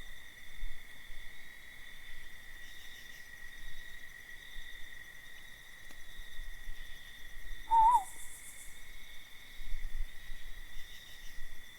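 Night insects, crickets, trilling steadily in a high continuous tone, with one brief wavering call about eight seconds in that drops in pitch at its end.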